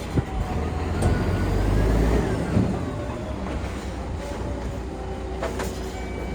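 Scania R480 dump truck's straight-six diesel engine running. It swells louder for about a second with a faint rising whistle, then settles back, with a few sharp clicks and knocks over the top.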